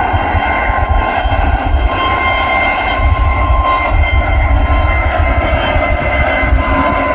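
Jet airliner engines at high power during a departure: a steady noise with a high fan whine over deep rumble.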